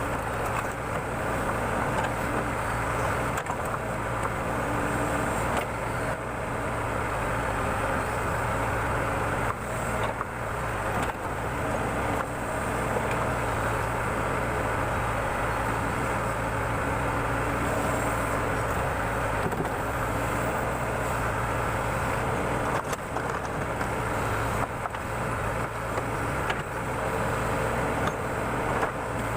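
Backhoe loader's diesel engine running steadily under working load while the machine digs, with a few faint knocks.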